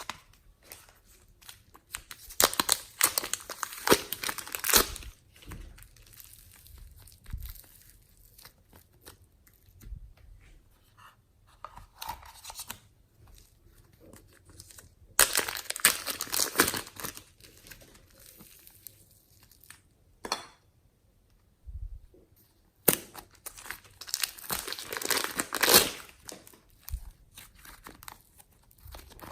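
Slime being squeezed, stretched and mixed by hand: sticky crackling and popping in three bouts, with quieter squishes between.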